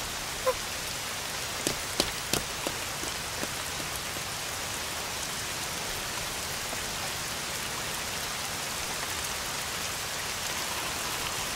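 Steady rain falling on a hard surface, with a few sharper drop splashes about two seconds in.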